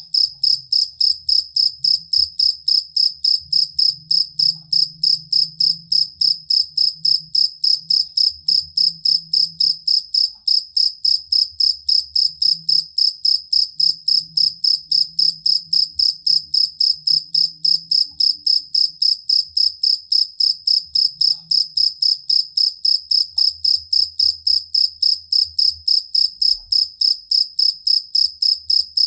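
Field cricket (jangkrik kalung) singing its calling song: a steady, high-pitched chirp repeated evenly, about three chirps a second, without pause.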